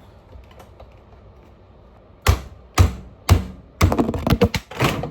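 Manual can opener being worked on a can of condensed milk without managing to open it: three sharp metal knocks about half a second apart, then a quick run of clicks and clatter.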